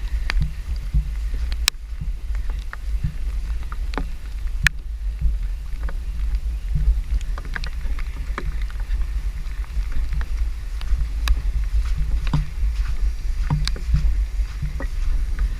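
Floodwater sloshing and splashing with irregular soft surges, over a steady low wind rumble on the microphone and scattered sharp ticks.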